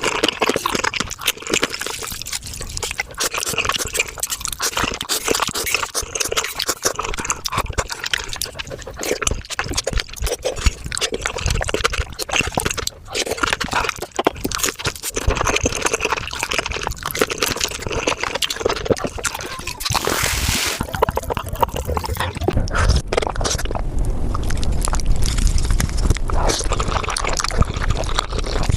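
Eating sounds sped up about five times: rapid wet slurping and chewing of spicy soft tofu soup, thick with quick clicks. About three-quarters of the way through the sound changes to a duller recording with more low rumble.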